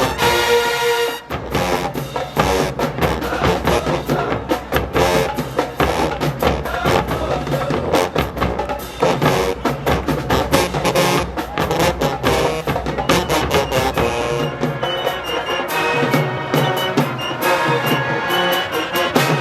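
Marching band playing loudly, with the drumline's snare and bass drums driving a fast, steady beat and brass chords heard near the start and again near the end.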